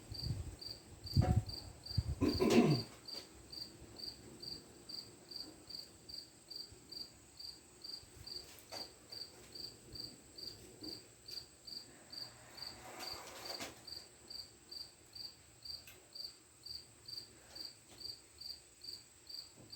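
A cricket chirping steadily, about two chirps a second. A few loud knocks and clatter come in the first three seconds, and a brief scrape about two-thirds of the way through.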